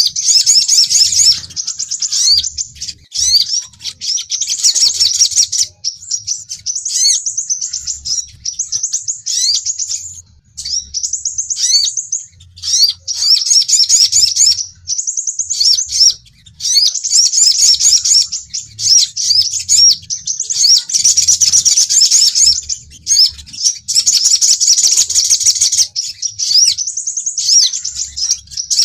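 Sunbirds, the sepah raja (crimson sunbird) and sogon, calling: fast runs of high, sharp chirps and trills, many of them rising notes, in bursts of a few seconds with short breaks between. This is the lure and challenge call used to draw in rival sunbirds.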